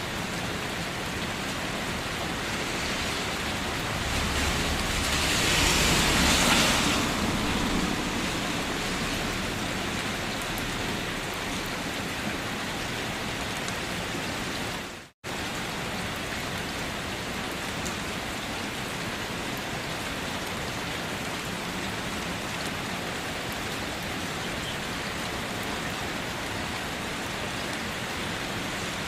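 Steady rain falling, a dense even hiss. A few seconds in it swells louder for about three seconds with a low rumble underneath, and about halfway through it cuts out for a split second before carrying on.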